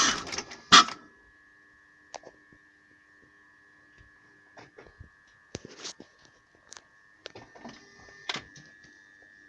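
A BMW car with its engine not running: a steady high electrical whine and a fainter low hum, with a sharp knock about a second in and scattered clicks and knocks after it.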